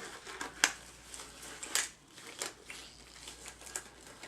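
Gloves being pulled on by hand: irregular rustling with sharp snaps and clicks, the loudest about two-thirds of a second in and again just under two seconds in.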